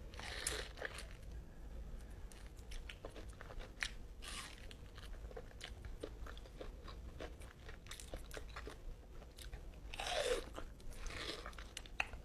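Close-up eating sounds of a person biting and chewing mango: a run of crisp crunches and wet mouth clicks, with louder bites about half a second in, about four seconds in and again near the end.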